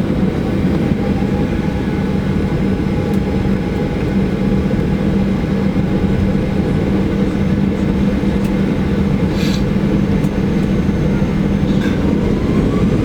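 Airliner cabin noise: a steady, loud low rumble of the jet engines and airframe with a constant hum, heard from inside the cabin around takeoff. A faint rising whine begins near the end.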